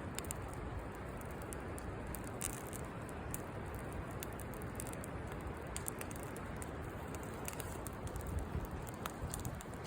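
Campfire crackling, with scattered sharp pops and snaps over a steady low rushing noise.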